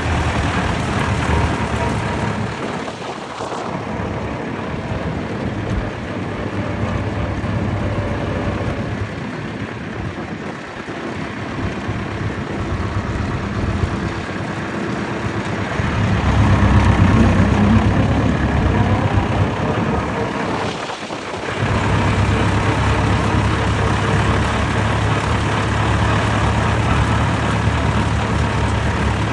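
Vintage tractor engines running at low speed on the road, a steady low drone. It grows louder for a few seconds past the middle and dips briefly about three seconds in and again about twenty-one seconds in.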